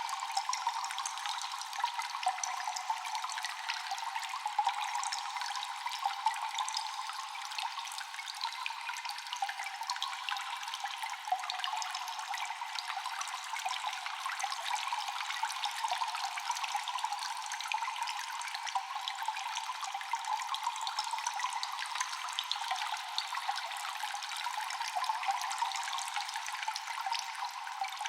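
Constant water dripping in a cave: a dense, steady patter of many small drops over a wash of trickling water, echoing. The sound is thin, with no low rumble.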